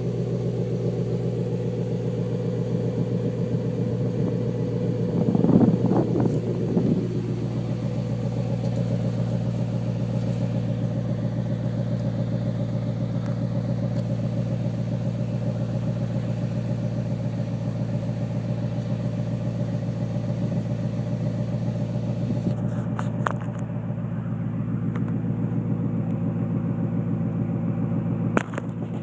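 BMW 540i's 4.4-litre V8 idling steadily through a Schmiedmann aftermarket exhaust. There is a brief louder burst about five to seven seconds in.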